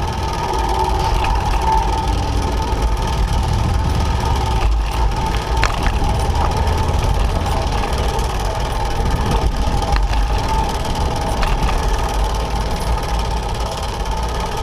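Steady noise of highway traffic with a low rumble, heard from a bike riding alongside the highway.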